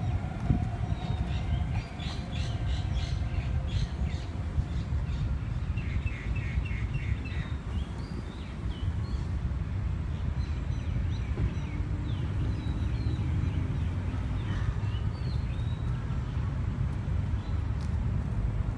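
Birds chirping in quick series of short, repeated calls and scattered single calls, over a steady low background rumble.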